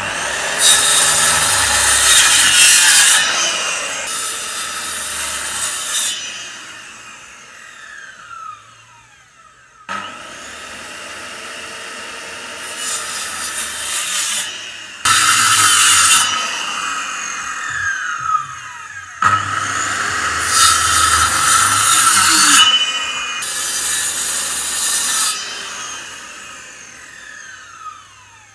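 A saw cutting through wood in repeated spells of rasping strokes, each spell lasting about two seconds, with abrupt breaks where the sound cuts off suddenly.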